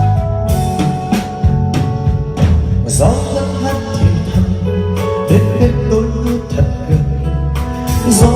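Vietnamese pop ballad played over a drum kit beat, bass and keyboards, with a male voice singing from about three seconds in.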